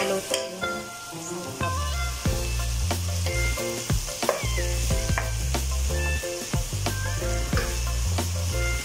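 Sliced onion, tomato, ginger and lemongrass sizzling in hot oil in a pot, stirred with a wooden spatula that scrapes and knocks against the pan. Background music with a changing bass line runs under it and becomes the loudest part from about a second and a half in.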